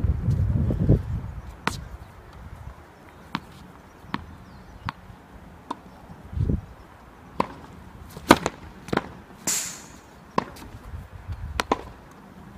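Tennis balls struck by rackets and bouncing on a court during practice: a dozen or more sharp, irregularly spaced knocks, some in quick pairs. A low rumble fills the first second.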